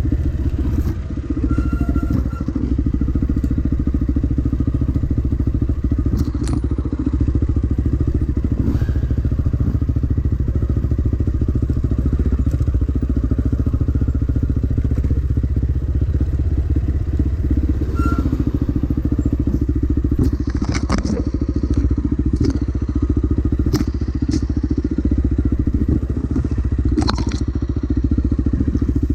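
Dirt bike engine running steadily at low, even revs along a trail. Several sharp knocks and clatters come through over it, most of them in the last ten seconds or so.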